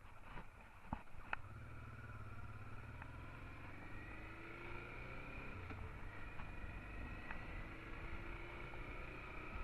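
Honda Transalp XL650's V-twin engine running under way, a low rumble whose pitch rises slowly as it picks up speed, with a few sharp clicks in the first second or so.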